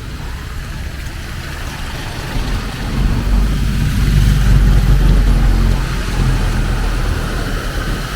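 A motor vehicle's engine running close by, its low rumble swelling about three seconds in and easing off after about six seconds, over steady street noise.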